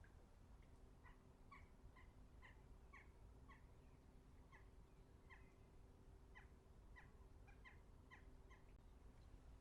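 A small bird chirping over and over, short calls about two a second, faint.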